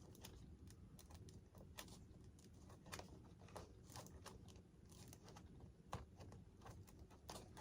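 Near silence: room tone with faint, irregular small clicks and ticks of hands handling wiring and parts.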